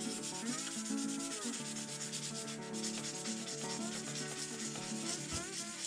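Sandpaper rubbed by hand in rapid, steady strokes over the painted RC truck body, scuffing through the paint to give it a sun-faded patina.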